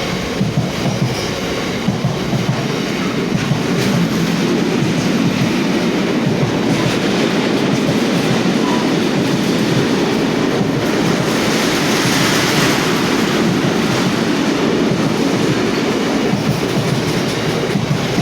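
Freight train's wagons rolling past at speed, a steady loud rumble with the wheels clattering over the rail joints; the Lindsey–Kingsbury working is a train of fuel tank wagons.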